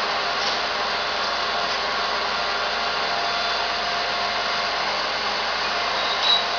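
Garbage truck running with its hydraulic lifting gear working: a steady, even whining rush. A brief sharper sound stands out near the end.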